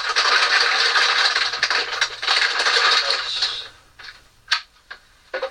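Continuous rattling and scraping for about three and a half seconds, then it stops and a few sharp clicks and knocks follow.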